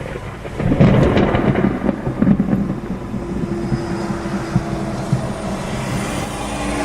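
Thunder from a cloud-to-ground lightning strike about 2 kilometres away. It breaks in loud about a second in, peaks twice in the first couple of seconds, then rolls on as a lower rumble.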